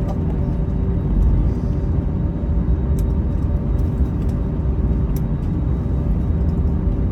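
Steady low rumble and hum inside the cabin of an Airbus A321 on the ground before takeoff, with two faint clicks from the cabin.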